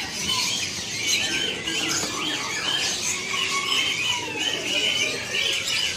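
Many birds chirping and calling at once in a dense, continuous chorus of overlapping short chirps and whistles.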